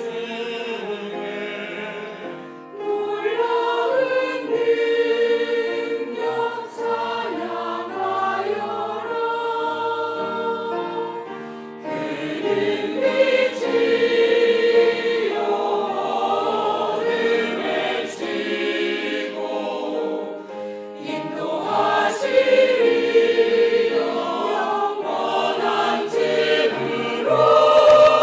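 Church choir singing a Christmas cantata in several parts, with sustained notes; the singing swells louder near the end.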